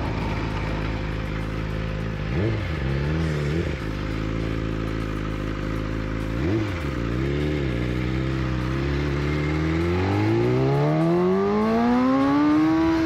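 Motorcycle engine running, with two quick throttle blips, about two and a half and six and a half seconds in, then accelerating hard with a long steady rise in pitch over the last three seconds.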